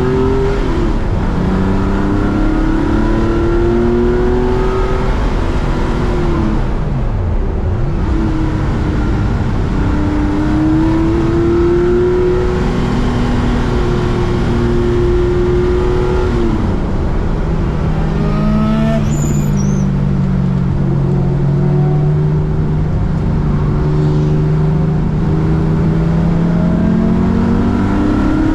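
Air-cooled Porsche flat-six race engine running hard on track. Its pitch climbs under acceleration and drops sharply at gear changes and braking several times, with a lower-revving stretch about two-thirds of the way through.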